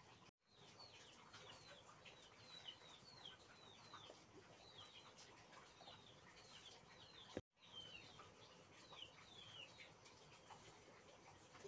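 Birds chirping faintly in the background: many short, high chirps, each falling in pitch, repeated throughout. The sound drops out briefly twice.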